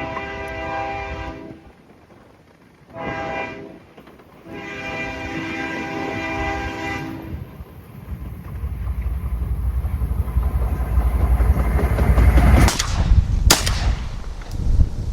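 A train horn sounds three blasts, the last the longest, then the train's deep rumble builds as it passes close by. It is followed by a few sharp cracks near the end.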